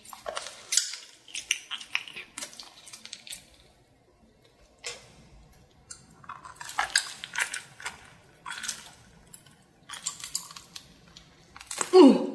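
Close-miked biting and chewing of a sauce-coated giant octopus: sticky, wet clicks and squelches in irregular clusters, with a short lull about four seconds in. Near the end comes the loudest sound, a short wet mouth sound falling in pitch.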